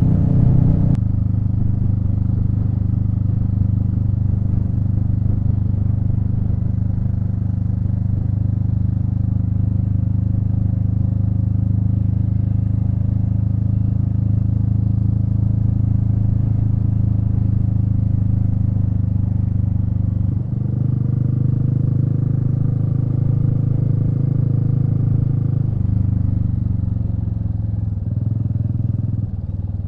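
Royal Enfield Meteor 350's single-cylinder engine running steadily under way. Its note shifts twice, about two-thirds of the way through and again a few seconds later.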